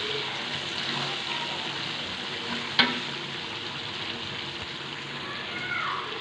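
Chicken and masala sizzling in a metal karahi as it is stirred with a wooden spatula, a steady frying hiss. A single sharp knock, the spatula against the pan, comes about three seconds in.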